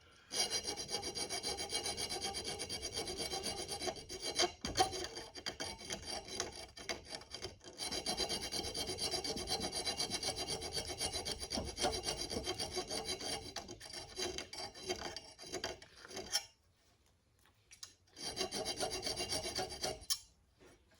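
Hand file rasping back and forth on a metal mount bracket in quick, even strokes. There are short breaks, and a longer stop about three-quarters of the way through before filing resumes.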